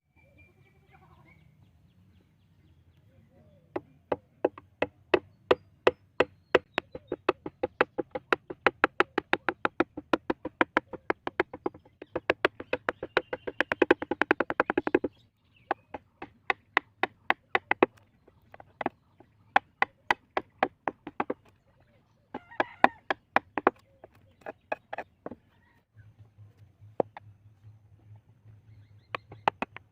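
A wood-carving chisel being struck in quick, even taps, about four a second. The taps come faster for a few seconds, stop suddenly about fifteen seconds in, then carry on as scattered taps with pauses.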